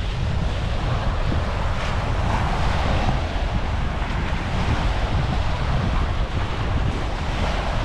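Wind buffeting the microphone in a constant low rumble, over a steady wash of surf.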